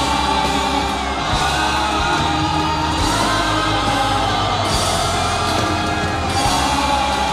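Live singing of a Mandarin pop-rock song over loud amplified backing music.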